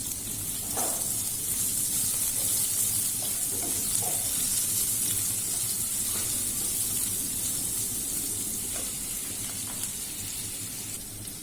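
Chopped onion, garlic and sliced green chillies sizzling in hot oil in a pan: a steady frying hiss, with a few faint clicks.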